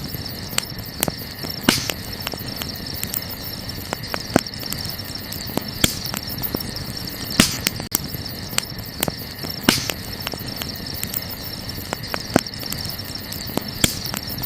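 Burning wood crackling, with irregular sharp pops a second or two apart, over a steady high chirring of insects such as crickets.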